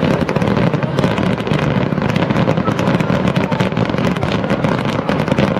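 A dense fireworks barrage going off: many rapid, overlapping bangs and pops with no break.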